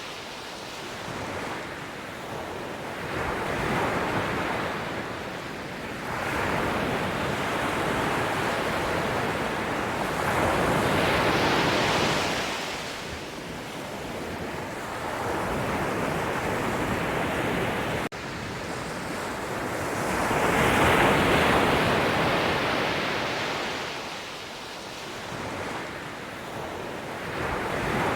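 Ocean waves breaking and washing on a shore, the surf swelling and ebbing every few seconds with its loudest surge about three quarters of the way through. There is a momentary break in the sound about two thirds of the way through.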